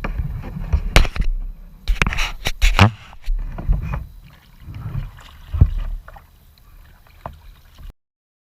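Hard knocks and clunks on a kayak over a low, buffeting rumble on the microphone. The loudest come in a cluster in the first three seconds, then single ones, before the sound cuts off suddenly near the end.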